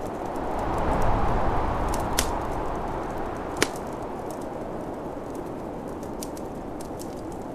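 Snowstorm wind blowing, gusting up about a second in and easing off, over a wood fire crackling, with a few sharp pops, the loudest about three and a half seconds in.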